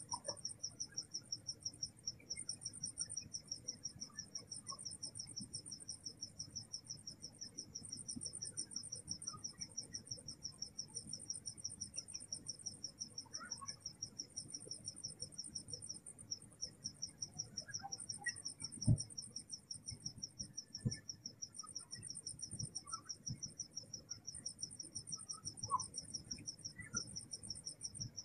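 Night insects, crickets, chirping without pause: one keeps a steady, rapid pulsing chirp while a higher trill starts and stops in stretches. Under them runs a low rumble, with a few soft thumps in the second half.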